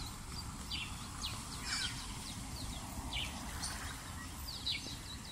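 Small birds chirping: a scattered run of short, high notes, each falling in pitch, over a steady low rumble of outdoor background noise.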